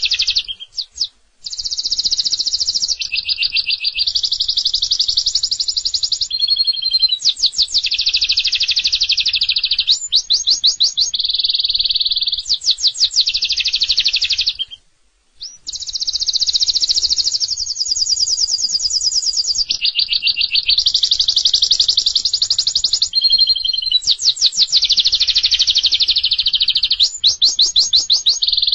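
Domestic canary singing a long, loud song of rapid trills and repeated-note phrases, each phrase lasting a second or two before switching to the next. The song breaks off briefly about a second in and again about halfway through.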